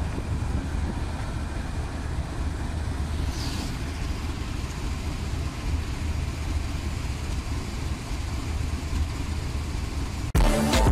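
Shalimar Express passenger train with a GEU-40 diesel locomotive passing: a steady rumble of the running train with wind noise. Music cuts in abruptly near the end.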